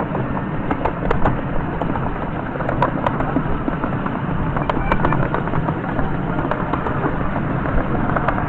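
Miniature railway train running: a steady rumble with frequent irregular clicks and crackles.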